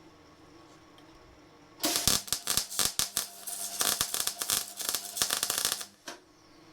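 Electric welding arc crackling and spitting irregularly while exhaust pipe sections are welded together, starting about two seconds in and cutting off suddenly after about four seconds, with a faint steady hum underneath.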